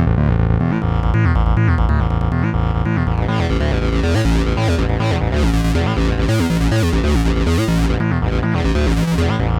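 Synthesizer music from a Behringer Neutron and a Donner B1 bass synth playing a sequenced, rhythmic bass line. About three seconds in the sound turns much brighter, with repeated sweeps.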